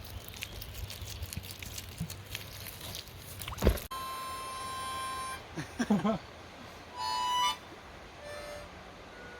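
Crackling, rustling handling noise ending in a thump, then a harmonica playing single held notes with pauses between them from about four seconds in.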